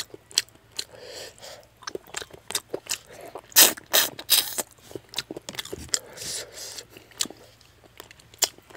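Close-up eating sounds of fish head curry eaten by hand: irregular wet chewing, smacking and crunching of small fish bones, loudest around four seconds in.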